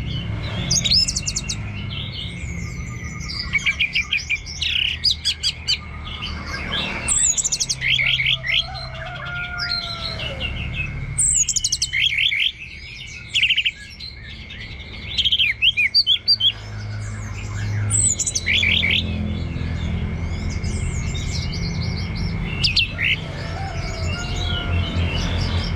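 Orange-headed thrush singing a long, varied song of quick chirps and rapid runs of whistled notes, with brief pauses between phrases. A steady thin high whine runs underneath.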